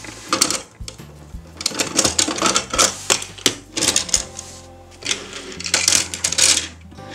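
Hard plastic toy buses and a plastic toy garage's doors clicking and clattering as they are handled and set down, in quick irregular bursts, over background music.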